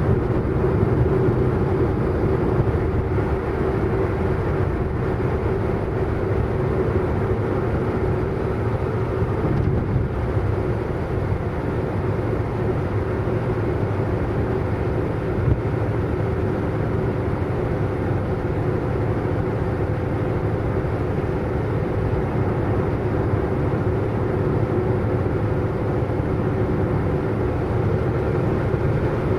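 Car driving fast at a steady speed: a steady engine drone over tyre and road noise, with no change in pitch.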